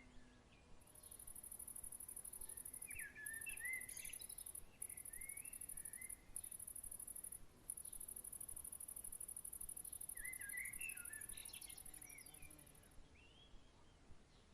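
A cricket trills high and fast, in long stretches with a few brief breaks. Short warbling bird chirps come twice, about three seconds in and again near ten seconds.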